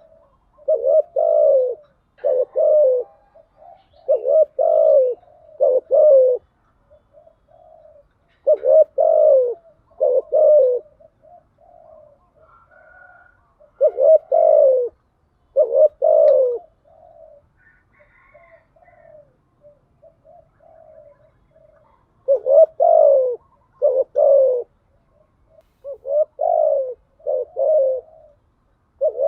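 Spotted dove cooing, used as a lure call: groups of two to four deep coos repeated with pauses of a few seconds between them, with faint quieter calls in the gaps.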